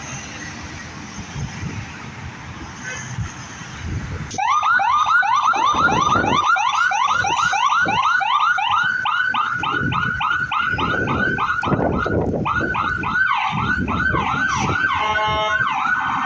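Emergency vehicle's electronic siren switching on about four seconds in and sounding a fast yelp of rapidly repeated pitch sweeps, over a low rumble of engine and road noise.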